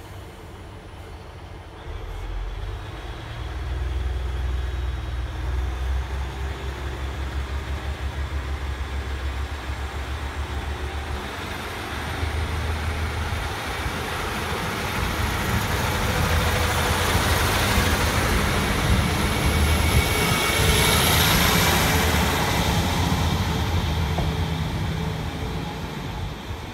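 A Class 150 Sprinter diesel multiple unit pulls away from the platform. Its underfloor diesel engines open up about two seconds in with a low throb, then the train runs close past with engine and wheel-on-rail noise. A thin high whine comes in around twenty seconds, and the sound fades near the end as the train goes.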